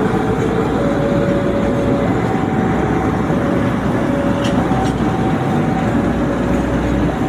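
An electronic two-tone warning signal alternates steadily between a higher and a lower note, switching about once a second. Beneath it runs a steady, loud rumble of a passing train or heavy vehicle.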